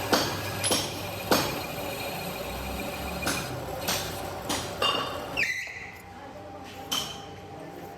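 Irregular metal clanks and knocks, about eight in all, over a steady machinery hum in a metalworking shop. The hum drops away about five and a half seconds in.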